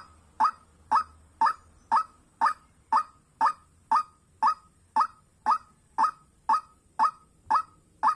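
White-breasted waterhen (dahuk) calling: one short note, repeated very evenly about twice a second.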